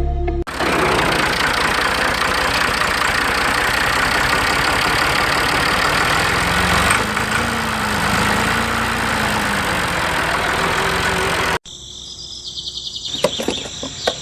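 Engine running steadily, a dense rumbling noise that cuts off abruptly about eleven and a half seconds in, leaving a quieter background with a fast, even insect-like ticking.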